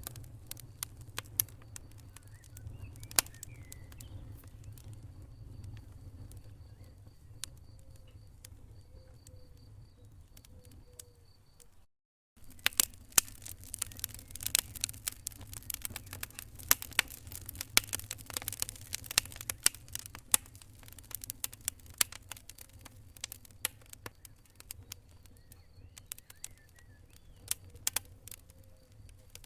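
Wood fire in a fireplace crackling, with irregular sharp pops and snaps over a low steady rumble. The sound drops out completely for a moment about twelve seconds in, and the crackling is denser for several seconds after that.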